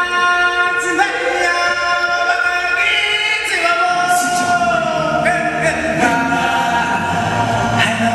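Choir singing long held chords, with musical accompaniment.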